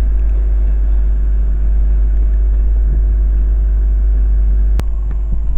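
Class 221 Voyager diesel-electric multiple unit running as it pulls away, a steady low rumble with an even engine hum. A single sharp click comes near the end.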